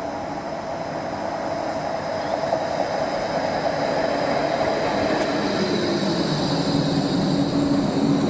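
Rail vehicle running on steel rails, growing steadily louder, with a steady electric whine that shifts in pitch from about halfway through.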